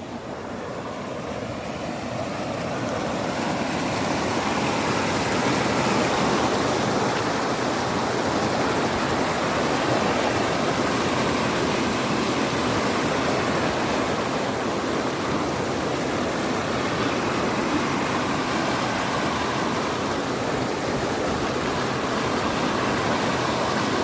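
Swollen river in flood after heavy rain, its water rushing hard in a steady, dense noise that grows louder over the first few seconds and then holds.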